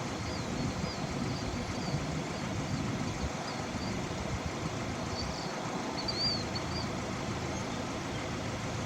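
Steady rumble of wind and a running vehicle, with faint high chirps now and then.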